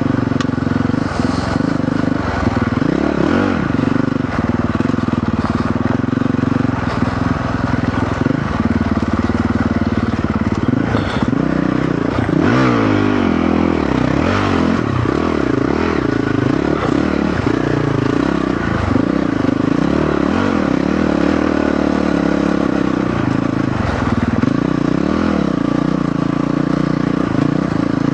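Honda CRF450RL single-cylinder four-stroke dirt bike engine ridden under load, the revs rising and falling again and again as the throttle is worked over rough ground, with a few brief knocks.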